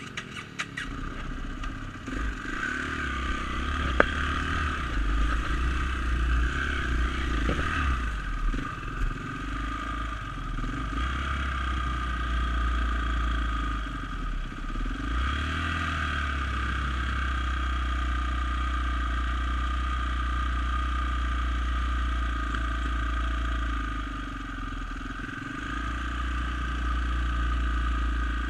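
Dirt bike engine running under way, the throttle easing off briefly twice and then picking back up, with some clicks and clatter at the start.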